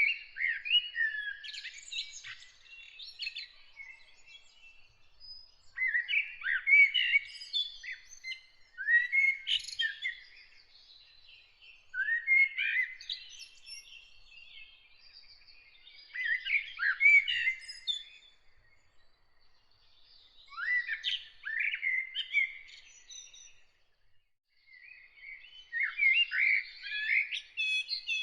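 A songbird singing, repeating a varied, high-pitched song phrase of two to three seconds about every four seconds, with short quiet pauses between phrases.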